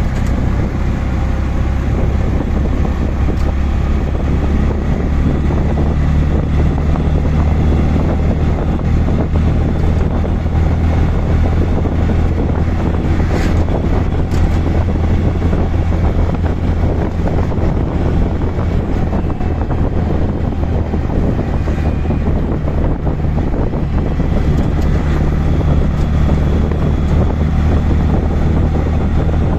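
Auto rickshaw engine running steadily on the move, a low drone with wind buffeting the microphone.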